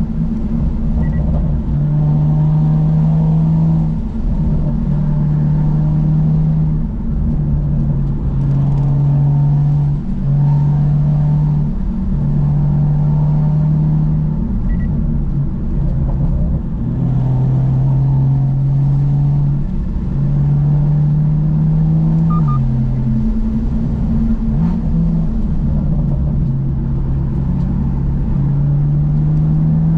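BMW M2's N55 turbocharged inline-six running through a Remus aftermarket exhaust while driving: a steady low drone whose pitch holds level, then shifts up or down in small steps every few seconds.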